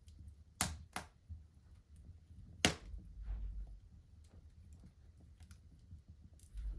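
Wood fire in a fireplace crackling, with scattered sharp pops. Three pops stand out louder in the first three seconds, over a faint low rumble of the flames.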